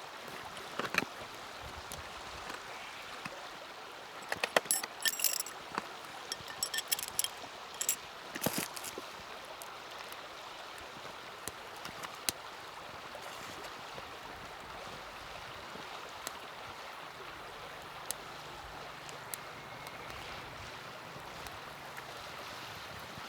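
A steady rushing like running water, with a flurry of light sharp clicks and clinks about four to nine seconds in and a few single clicks elsewhere.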